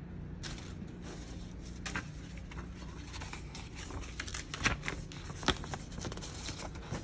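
Hard plastic diorama pieces being handled and fitted together: a string of irregular clicks and knocks, the loudest a little under five seconds in and again about a second later.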